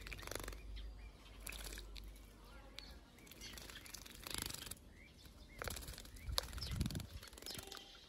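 A small pet bird bathing, fluttering its wings in short flurries, with a few faint short chirps.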